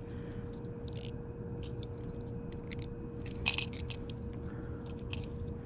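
Small clicks and fiddly handling noises from a slip-bobber fishing rig being adjusted on the line close to the microphone, with a slightly louder clatter about three and a half seconds in, over a steady hum.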